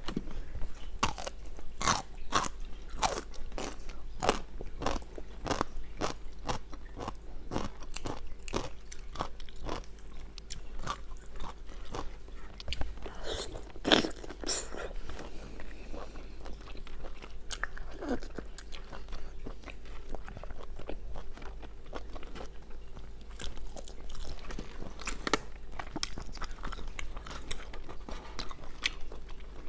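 Close-miked crunching and chewing of crisp food, bite after bite, with many sharp crunches that come thick and fast at first, the loudest about halfway through, and sparser after.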